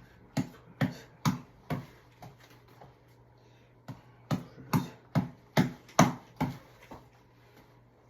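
A tap ball (headband reflex ball) being punched in quick runs of hits, about two a second: four solid hits, a couple of weaker ones, then after a pause a run of about eight.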